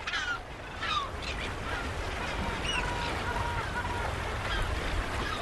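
Many seabirds calling, short falling calls scattered throughout, over a steady rush of sea and wind.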